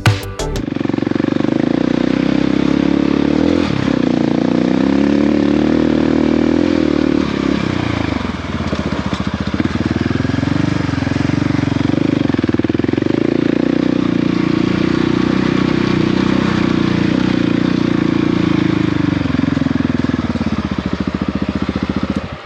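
Motorcycle engine running under way, its pitch rising and falling again and again as the revs change.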